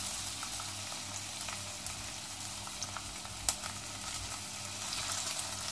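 Chopped onion frying in hot olive oil: a steady sizzle with scattered crackles and pops.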